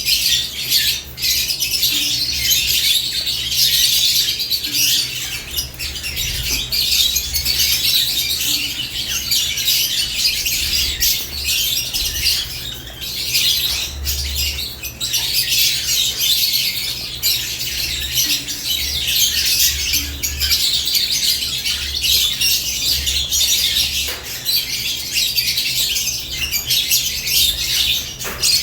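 Caged lovebirds chattering nonstop, a dense mix of shrill squawks and chirps, over a steady low hum.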